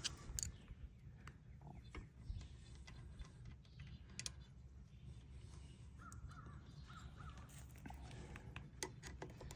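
Faint light clicks and taps of handling, with a short series of faint bird calls about six seconds in.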